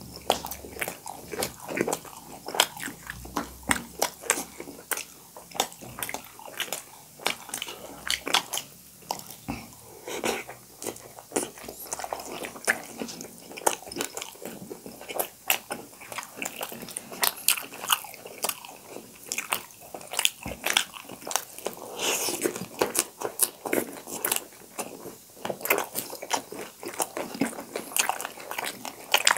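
Close-miked chewing of steamed momos by two people eating. Many sharp, crisp crackles and wet mouth clicks follow one another throughout.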